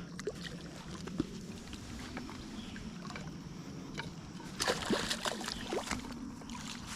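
Small hooked longnose gar splashing and sloshing at the water's surface as it is reeled in, with a cluster of sharper splashes about two-thirds of the way through.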